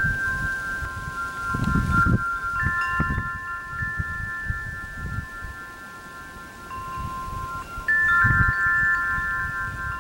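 Chimes ringing: several clear, steady tones at different pitches, held and overlapping, each starting and stopping on its own, with low rumbles about two seconds in and again near eight seconds.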